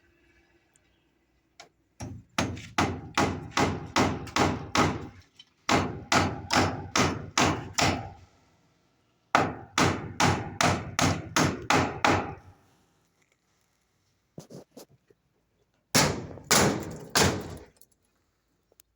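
Hammer blows, struck quickly at about three a second in four runs with short pauses between them, typical of driving nails during a build.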